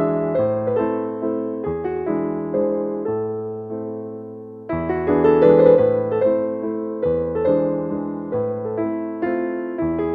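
Slow background piano music: single notes over held chords, fading down before a new, louder phrase starts about five seconds in.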